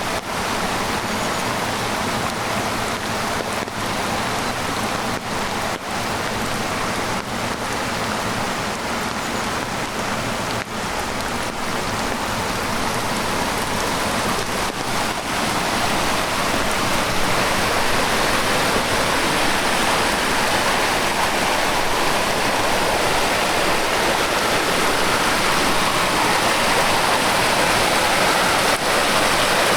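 Heavy rain falling together with a rain-swollen stream rushing; the rush of flowing water grows louder about halfway through.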